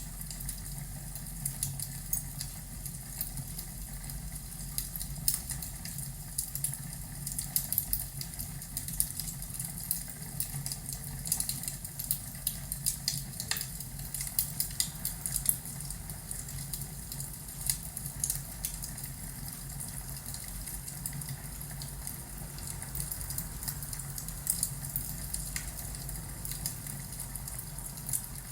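Crackling fireplace: irregular snaps and pops over a steady low rumble.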